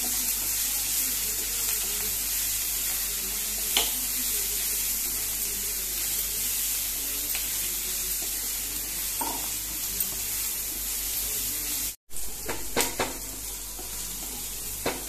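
Chopped onion, green capsicum and ginger-garlic paste sizzling in hot oil in a non-stick frying pan while being stirred, with a few light clicks of the spatula against the pan and a brief break near the end.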